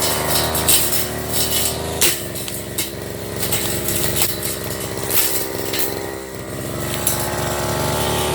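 Firman FGB389FI petrol brush cutter running while cutting grass, its engine note dropping about two seconds in and wavering as it works, with many sharp ticks.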